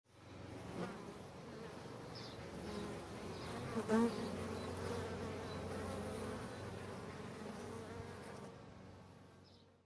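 Honey bees buzzing in a steady drone, with a bee passing close and louder about four seconds in; the buzzing fades out near the end.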